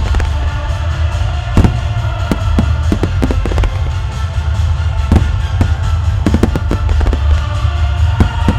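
Fireworks shells bursting in rapid, irregular succession in a starmine finale, over orchestral music that plays throughout.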